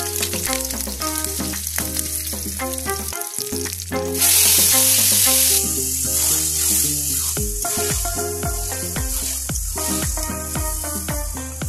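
Hot oil sizzling in a metal wok as marinated chicken goes in, with a sudden louder burst of sizzling about four seconds in, then a metal spatula scraping and stirring the frying chicken in the second half. Background music plays throughout.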